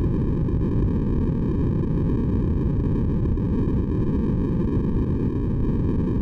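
Steady synthetic sleep noise, deep and even, with most of its sound in the low range and only a faint hiss above; it does not change.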